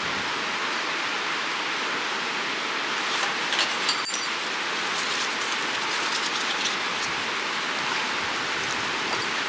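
Steady rush of a creek flowing, with a brief cluster of sharp crackles and snaps about four seconds in.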